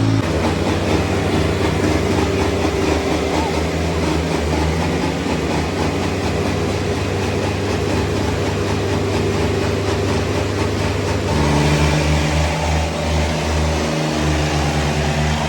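Eicher 557 tractor diesel engines running hard under load in a tractor tug-of-war. About 11 seconds in, the engine note drops and turns into a lower, pulsing throb.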